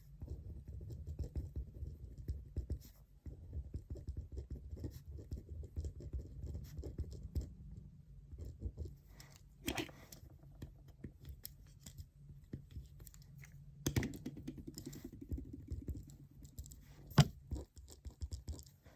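Pen writing on paper on a desk: a busy run of scratching strokes, looser after the first half, with a few sharp taps, the loudest near the end.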